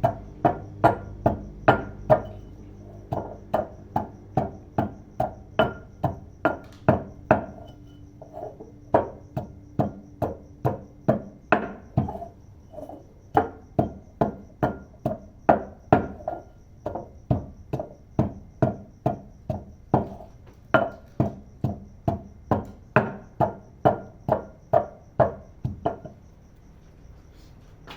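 Pestle pounding in a mortar at a steady pace of about two strikes a second, crushing a spice paste of lemongrass, shallots, garlic and dried chilies; the pounding stops about two seconds before the end.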